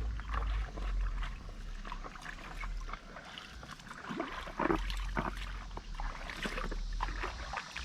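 Shallow stream water babbling and splashing in quick, irregular spurts over a steady low rumble.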